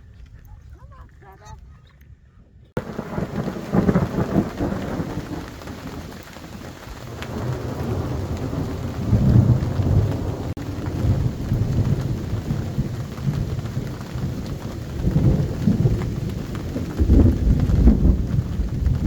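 Steady rain falling with low rolling rumbles of thunder, starting abruptly about three seconds in; the rumbles swell twice, loudest near the end.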